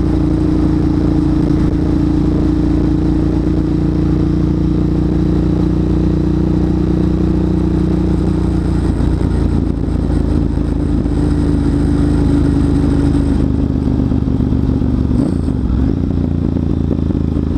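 Motorcycle engine running steadily at a cruise of about 40 mph, its note shifting slightly about nine seconds in and again a few seconds later.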